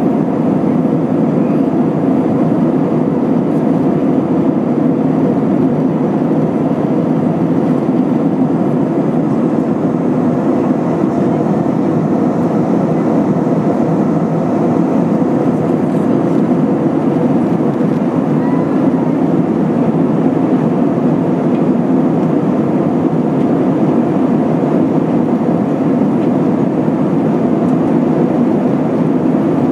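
Steady cabin noise of an Airbus A320-232 in flight: an even rushing drone of engines and airflow, unchanging in level.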